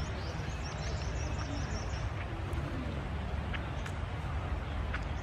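A bird chirping a quick run of high notes in the first second and a half, over a steady low rumble, with a few faint short calls or clicks later.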